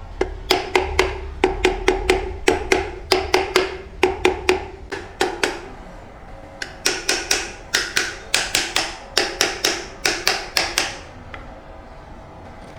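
Hammer blows on metal in a rapid series, about two to three a second, with a ringing note in the first half. The strikes turn sharper and higher about seven seconds in and stop near the end.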